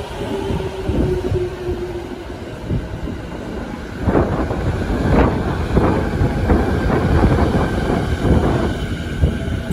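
JR East 209 series 2000/2100 electric commuter train moving past along the platform. A motor whine fades out about two seconds in over a steady rolling rumble. From about four seconds in the wheels clack over rail joints, roughly one to two clacks a second.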